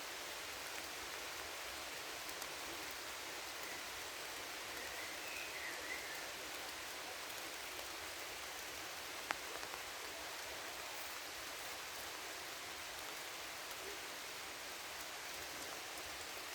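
Steady rain falling, an even hiss of many drops, with one sharper, louder drop about nine seconds in.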